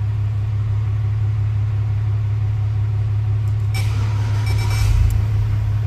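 Chevrolet Suburban's engine cranked with the key about three and a half seconds in: the starter spins for about a second and the engine catches and starts. A steady low hum runs underneath.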